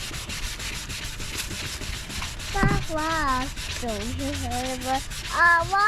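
Wet sandpaper rubbing rapidly back and forth on a plastic headlight lens in steady rasping strokes. About halfway through and again near the end, a child's wordless voice rises and falls over the sanding.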